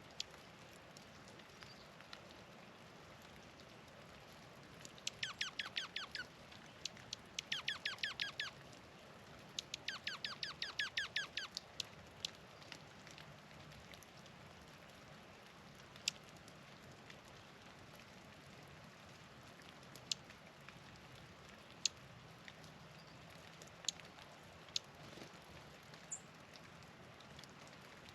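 A songbird singing three quick series of sharply down-slurred notes, about eight to ten notes in each. Single short chip notes come every few seconds after them.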